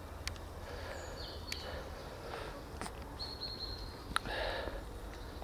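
Outdoor background with a steady low rumble, a few brief high chirps and several sharp clicks.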